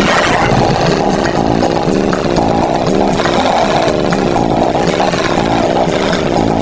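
Cartoon tractor engine sound effect running steadily, a dense rumbling noise, mixed with children's song music.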